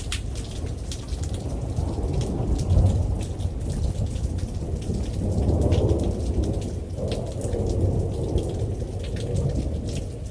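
Thunder rumbling in long rolls, swelling about two to three seconds in and again around six seconds, over steady rain with separate drops ticking close by.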